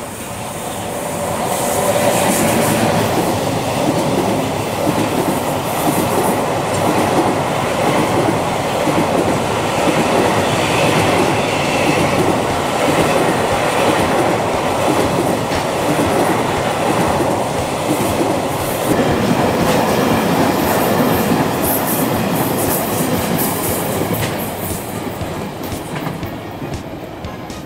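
Container freight train hauled by an EF210 electric locomotive passing close by, its wagons running steadily over the rails. The sound builds over the first two seconds, holds, and fades in the last few seconds as the end of the train goes by.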